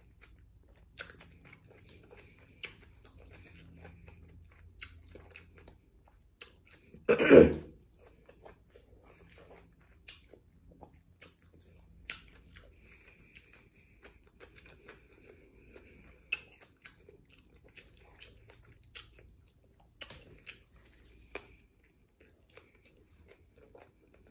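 Close-up chewing and mouth sounds of a person eating a chicken burrito: soft wet clicks and smacks scattered throughout. One louder, brief sound comes about seven seconds in.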